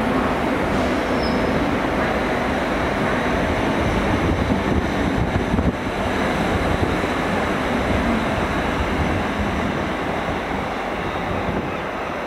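GWR Hitachi Class 800 train running past on the platform line, a steady rush and rumble of wheels on rail and moving coaches. The noise eases slightly after about nine seconds.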